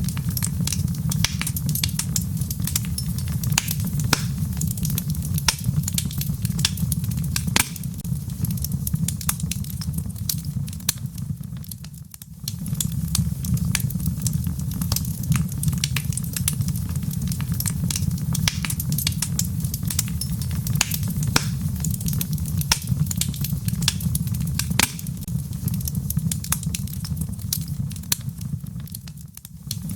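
Crackling wood fire in a fireplace with frequent sharp pops and snaps, over a steady low rushing noise mixed with gentle falling rain. The sound dips briefly twice, about twelve seconds in and near the end.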